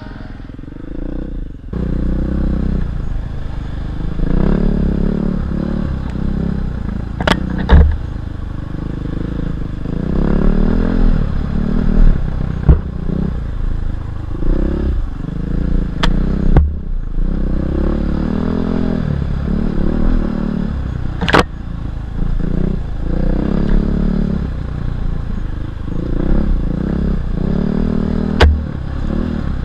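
Single-cylinder enduro motorcycle engine on a trail ride, revving up and falling back over and over as the throttle opens and closes. A few sharp knocks, about four, come from the bike over rough ground.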